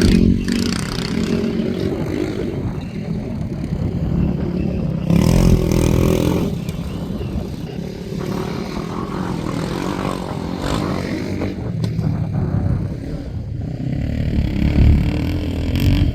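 Motorcycle and sidecar engines running steadily, with a louder surge about five seconds in and another near the end.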